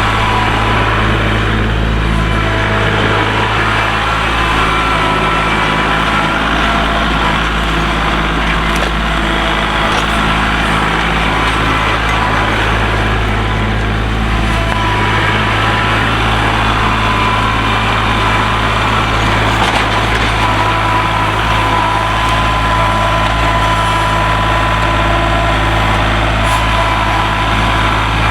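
Kubota tractor's diesel engine running steadily, with a steady high whine riding over it.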